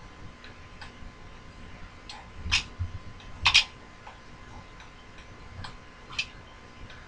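Sharp metallic clicks and ticks at uneven intervals, the loudest about two and a half and three and a half seconds in, from a new tap being worked into a hole by hand.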